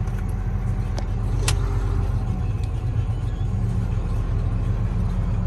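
Semi truck's diesel engine running steadily, a low drone heard from inside the cab, with a single sharp click about a second and a half in.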